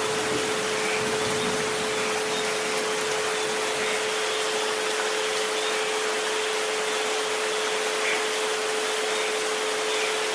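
Steady rain hiss with a continuous pure tone at 432 Hz and a fainter tone at 528 Hz held underneath it.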